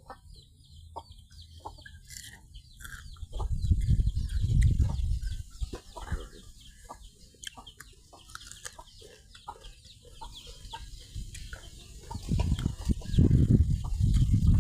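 Chickens clucking in short scattered calls over a high chirping haze, with two spells of loud low rumbling noise, about four seconds in and again near the end.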